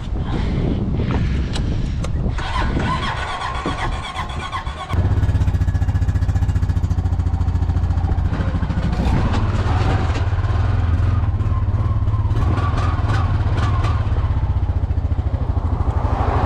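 A vehicle engine running. About five seconds in it becomes a louder, steady, low drone with a fast even pulse.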